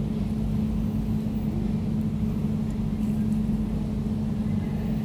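Air conditioner running steadily: a constant low hum with one strong steady tone over a low rumble.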